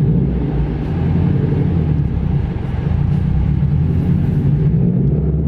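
Subaru car engine running steadily while driving, a low rumble.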